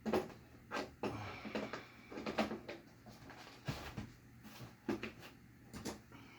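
Metal tools clinking and clattering in a series of sharp knocks: hex keys being sorted through and picked out of a set.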